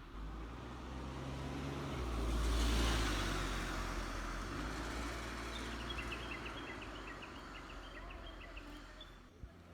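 A motor vehicle passes, its low engine and tyre noise swelling to a peak about three seconds in and then fading away. Birds chirp faintly in the second half.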